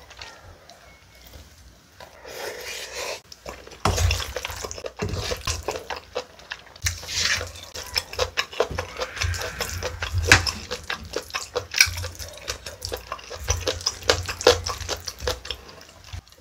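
Close-miked eating sounds: wet chewing and lip smacks over a mouthful of spicy webfoot octopus rice, with a wooden spoon working through the rice. It starts quietly and turns into rapid, irregular wet clicks about two seconds in.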